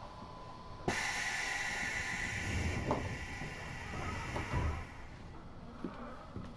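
Pneumatic passenger doors of a subway car closing: a sudden loud hiss of air about a second in that fades over the next four seconds, with a few low thuds.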